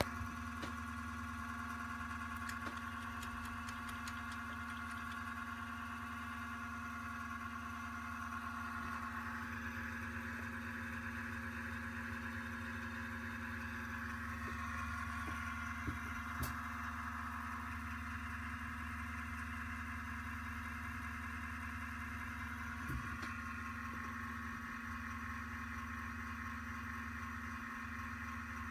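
Steady whirring hum of a desktop PC's cooling fans, with a few light clicks.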